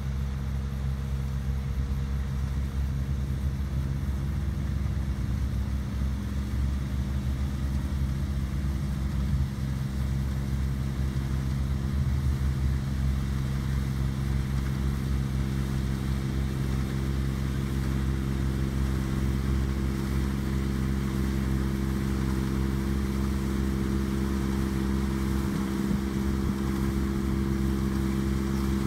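Rice combine harvester running at a steady engine speed, a constant machine drone with a stable engine note.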